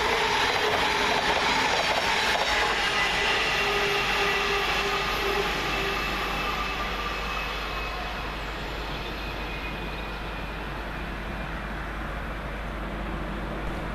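Passenger train running past on the line, with a steady rumble that fades away over about ten seconds and swells a little again near the end.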